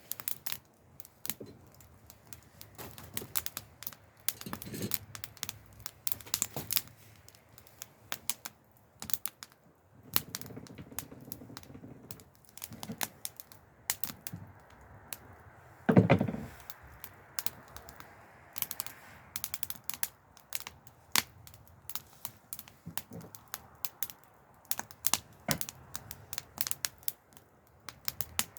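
Wood fire crackling, with irregular sharp snaps and pops of varying strength. One louder knock about sixteen seconds in.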